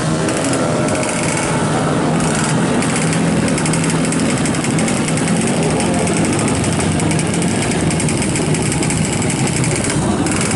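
Two-stroke motorcycle engine with a racing ignition, running steadily with a loud, raspy crackle.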